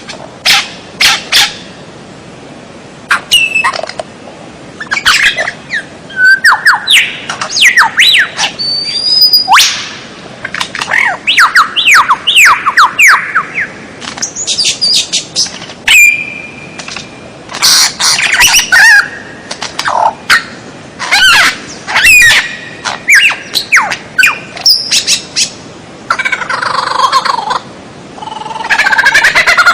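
Loud, varied songbird song in short bursts: whistled sweeps, runs of quick falling notes and chattering calls, with one held whistle midway and a denser, rougher chatter near the end.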